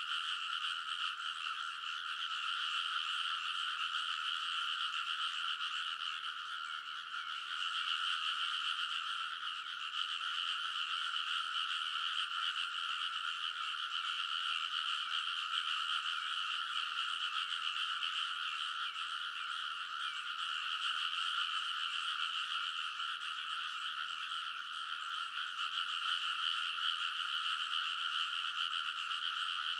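Dense chorus of many rice-paddy frogs calling all at once, a continuous massed croaking with no gaps.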